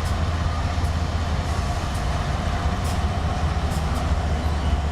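Train running, a steady low rumble with a few faint clicks.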